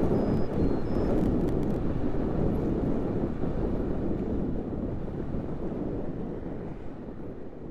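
Wind rumbling on the microphone of a camera riding along on a moving bicycle, with road noise underneath; it fades out steadily.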